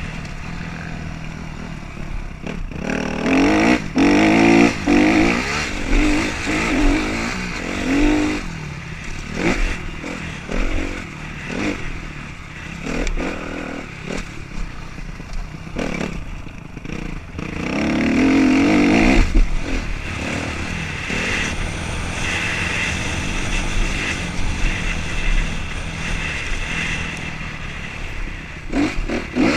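Motocross bikes racing past, their engines revving up and falling back again and again, loudest twice as bikes come close.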